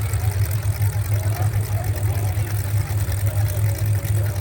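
Truck engine idling: a steady low rumble that pulses slightly.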